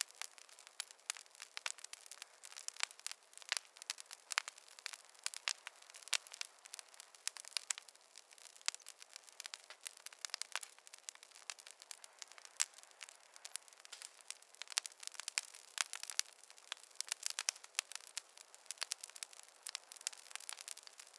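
Campfire crackling: a dense, irregular run of small pops and snaps from burning wood over a faint hiss.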